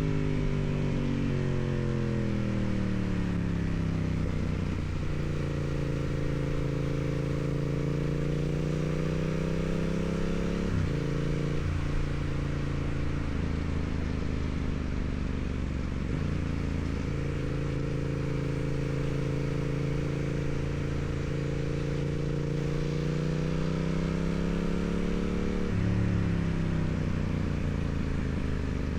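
2016 Yamaha MT-07's 689 cc parallel-twin engine through its stock exhaust while riding. The revs fall over the first few seconds, then hold fairly steady with gentle rises, with brief breaks about eleven, sixteen and twenty-six seconds in that sound like gear changes, over a steady hiss of wind and road noise.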